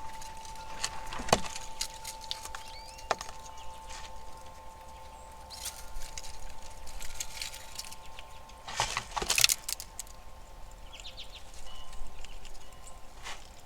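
Squirrels feeding at a platform feeder: scattered clicks, scratches and rustles from claws and nut-handling, the busiest burst about nine seconds in, over a steady faint high tone.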